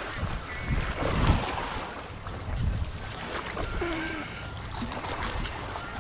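Wind gusting against the microphone, a low buffeting rumble that is strongest about a second in, over a noisy outdoor background like water lapping.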